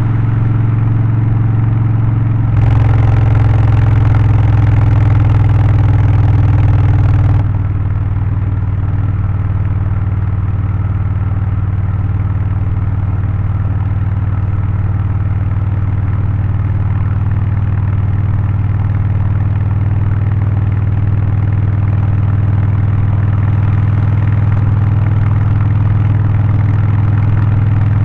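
Harley-Davidson Low Rider ST's Milwaukee-Eight 117 V-twin, Stage 1 tuned with aftermarket exhaust and air filter, running at a steady speed. About two and a half seconds in, a louder hiss joins for about five seconds and then cuts off suddenly.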